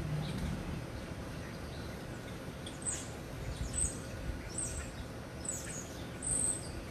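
Small birds chirping: a scatter of short, high chirps from about three seconds in, over a low background rumble.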